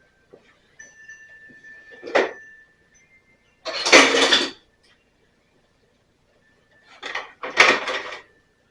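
Metal hand tools clattering and rattling, with a sharp click about two seconds in and three short bursts of rattling, most likely pliers being fetched from among other tools.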